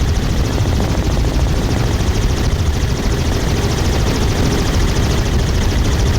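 Helicopter in flight heard from on board: loud, steady drone of the rotor and engine.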